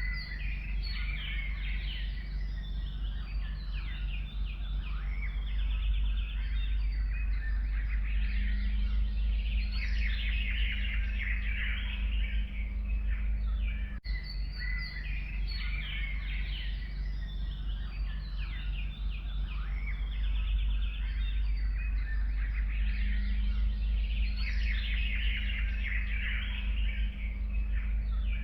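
A dense chorus of forest birds chirping and trilling, many calls overlapping, over a steady low hum. The same passage repeats about every fourteen seconds.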